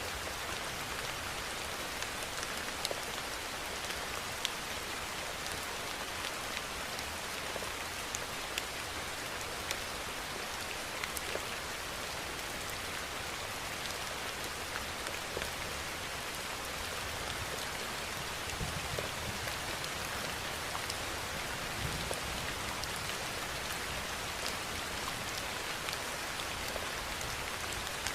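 Steady rainfall: an even hiss of rain with scattered sharp individual drop hits.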